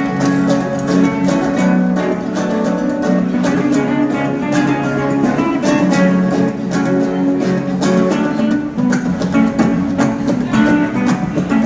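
Live acoustic guitar music from street musicians, a steady stream of quickly plucked and strummed notes.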